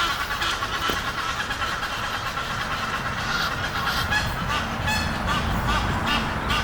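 Egyptian geese calling back and forth in a run of harsh honks, which turn into quick, short repeated notes about three a second in the second half. A low rumble lies underneath, growing near the end.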